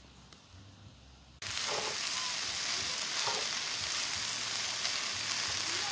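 Spinach and ground meat sizzling steadily in a frying pan as they are stirred with a wooden spatula. The sizzling starts abruptly about a second and a half in.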